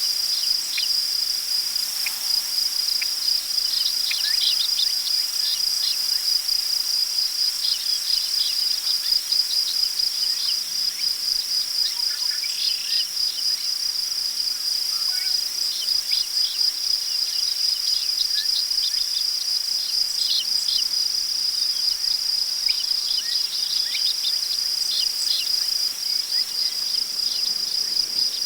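Crickets trilling in a steady, unbroken high chorus, with scattered short, high chirps underneath and a faint hiss of wind rustling through tall prairie grass.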